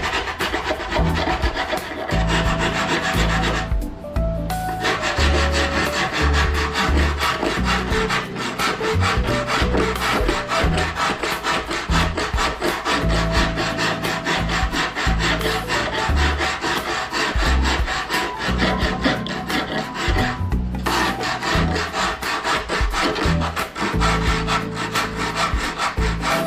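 Hand rasp filing in rapid back-and-forth strokes on a taxidermy deer form, a continuous scraping broken by brief pauses about four seconds in and about twenty seconds in.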